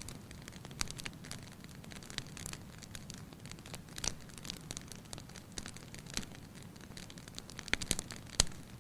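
Wood fire in a fireplace crackling, with a low steady hiss and irregular sharp pops, a cluster of louder pops near the end.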